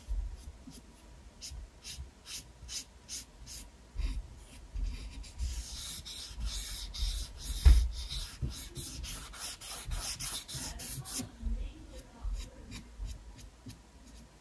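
Paintbrush scrubbing and dabbing acrylic paint onto a canvas in quick, short strokes, denser and steadier in the middle stretch, with one low thump about eight seconds in.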